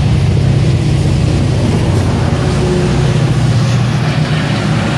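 MARC commuter train passing close by: stainless-steel passenger coaches rolling past, then the diesel locomotive at the rear of the train, its engine running with a steady low drone.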